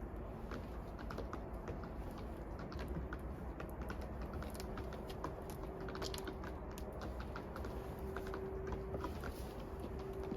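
Rapid, irregular small clicks and crackles over a low steady rumble, with a faint steady hum coming in about four seconds in.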